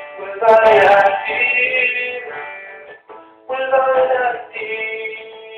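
A man singing long held notes, with a short break about three seconds in before the singing resumes.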